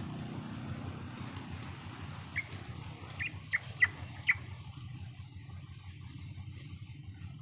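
Yellow-vented bulbul (trucukan) calling: five short, sharp notes in quick succession from about two to four and a half seconds in. Faint high chirping and a steady low rumble run underneath.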